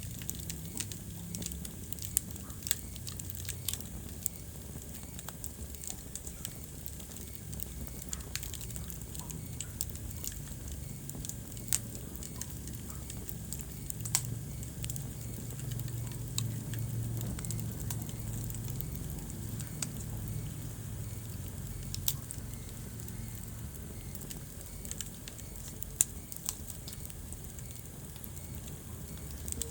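Wood fire burning in a fireplace: steady crackling with sharp pops scattered irregularly throughout, over a low rumble of flames.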